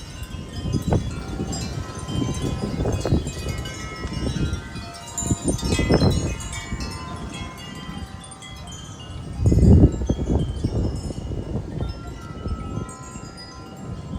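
Wind chimes ringing continuously in gusty storm wind, over repeated low rumbles, the loudest about nine and a half seconds in.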